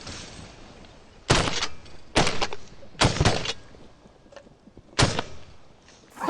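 Shotguns firing at ducks: several blasts in four quick volleys from more than one hunter, some shots overlapping, with the last shot standing alone a couple of seconds later.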